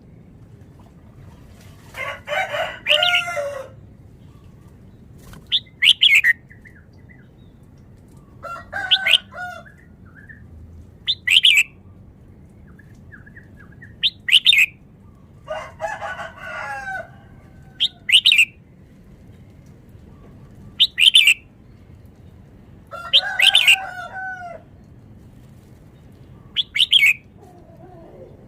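Red-whiskered bulbul singing: short loud high notes repeat about every three seconds, alternating with four longer warbled phrases of several gliding notes.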